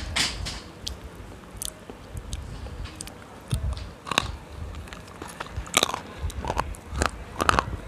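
Close-miked biting and crunching of a crumbly white chalk-like lump, with sharp irregular snaps and crumbling between bites.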